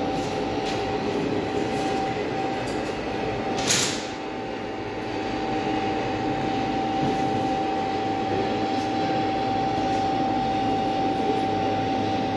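Road and running noise of a Renault Clio on a test drive after new brake pads, heard from inside the car: a steady rumble with a thin constant whine through it. There is a short sharp hiss about four seconds in.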